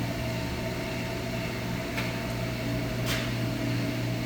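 Steady mechanical hum with a constant low drone, broken by two light clicks about two and three seconds in.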